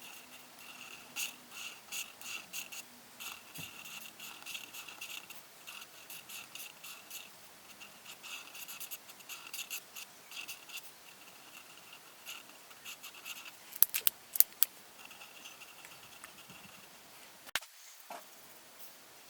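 Coloring strokes on paper: runs of quick, repeated scratching as a drawing page is colored in. A few sharp clicks come about fourteen seconds in, and another comes near the end.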